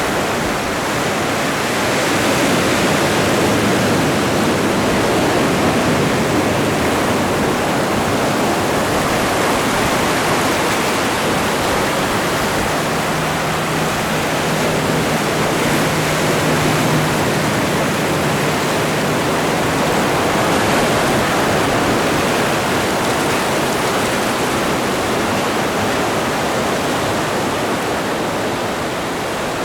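Atlantic Ocean surf: a continuous rush of breaking and washing waves, swelling and easing slowly. A faint low hum sits under it for a few seconds around the middle.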